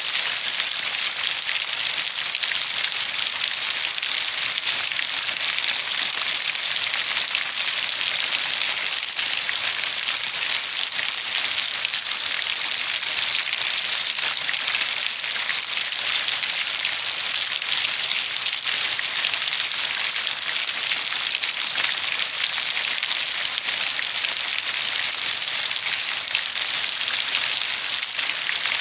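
Steady heavy rain falling on a surface, a dense, even hiss of many drops with fine pattering.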